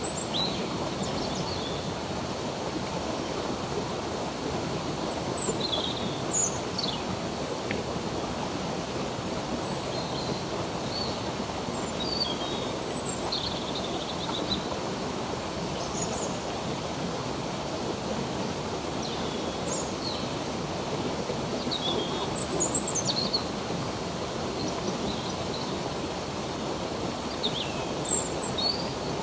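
Stream water running steadily, with small birds chirping and whistling at intervals over it.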